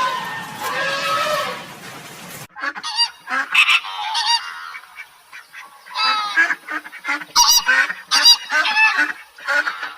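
Geese honking, many short calls in quick irregular succession, starting about two and a half seconds in after an earlier sound cuts off abruptly.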